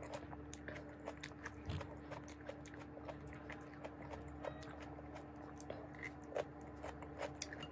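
A person chewing a mouthful of cooked vegetables close to the microphone: soft, irregular mouth clicks and smacks, with a faint steady hum underneath.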